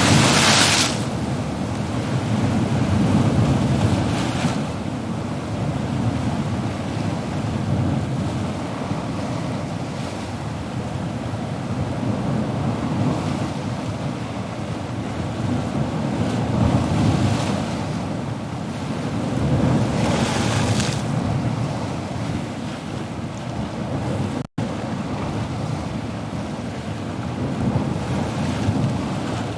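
Ocean surf washing steadily, swelling now and then as waves break and rush in. The sound drops out for an instant late on.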